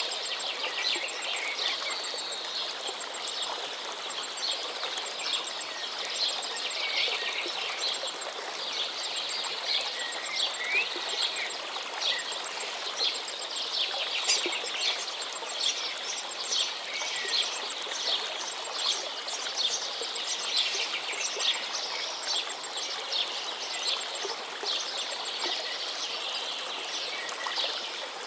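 Dense chorus of small birds chirping and trilling over a steady rushing hiss, with a faint high ticking call repeating at a regular pace.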